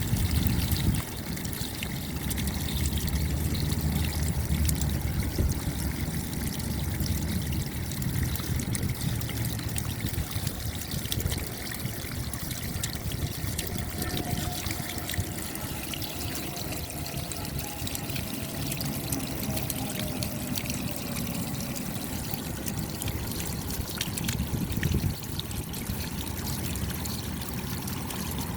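Steady rain falling, with many fine drop ticks and water trickling and pouring as runoff. A low rumble sits underneath in the first few seconds, then eases.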